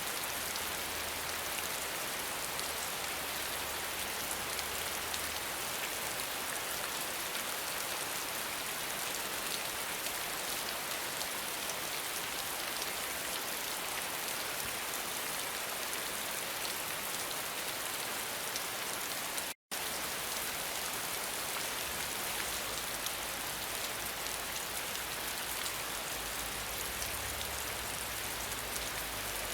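Steady rain falling, an even dense patter of drops. It cuts out completely for an instant about two-thirds of the way through, then carries on unchanged.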